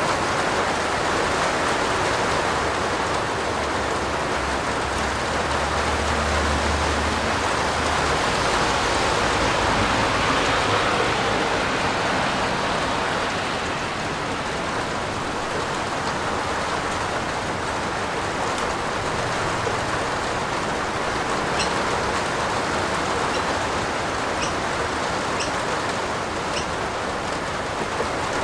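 Steady heavy rain falling on a roof, an even hiss, with a low rumble from about three to eight seconds in and a few separate drops ticking near the end.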